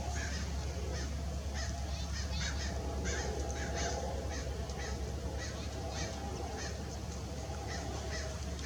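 Many birds calling together: short calls repeating and overlapping throughout, with honking among them, over a steady low hum.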